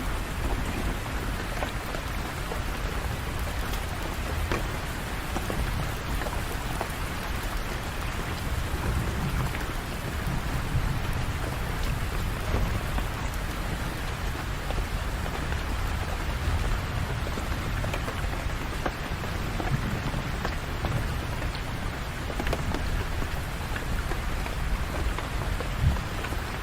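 Steady rain falling on hard surfaces, with scattered individual drop taps and a continuous low rumble underneath.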